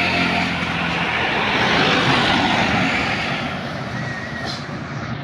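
A heavy road vehicle's engine running, with a broad rushing noise that swells over the first two seconds and then fades, as of a large vehicle passing close by.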